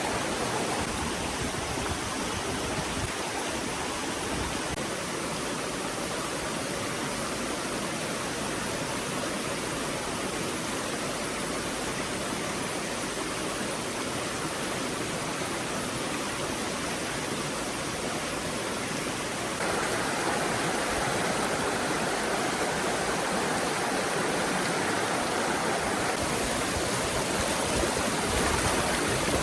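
Stream water running steadily, a continuous rushing wash; it gets somewhat louder and brighter about two-thirds of the way through.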